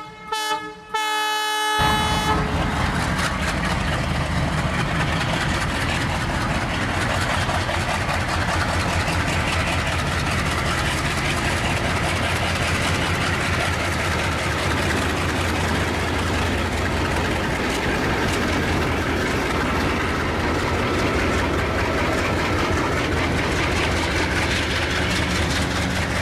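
Two WDM3D diesel locomotives under power. A horn sounds in a few short blasts and then a longer one in the first two seconds. After that their ALCO 251 V16 diesel engines run hard and steadily as they accelerate.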